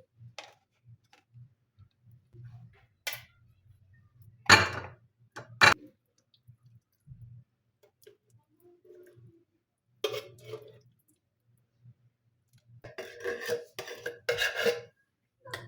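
Dishes and kitchen utensils clattering as they are handled: a few separate sharp knocks, the loudest about four and a half seconds in, and a quicker run of clinks near the end.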